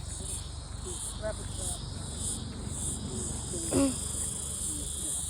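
Chorus of insects trilling high and steady, swelling and fading unevenly. A short, louder falling call cuts in just before four seconds.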